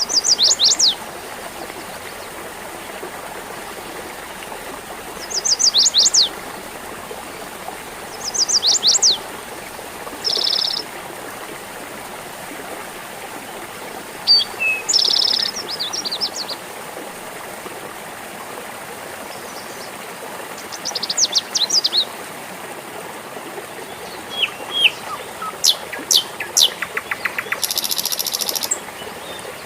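A small stream babbling steadily under songbird calls. Every few seconds a bird gives a short burst of quick falling notes, and near the end come a flurry of chirps and a harsh buzzy call.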